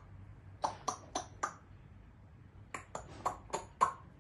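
A run of sharp, loud clicks: four in quick succession about half a second in, then six more in the second half.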